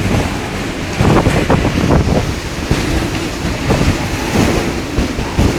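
Storm of torrential rain and gusting wind, with the gusts buffeting the microphone in a loud, rough rumble.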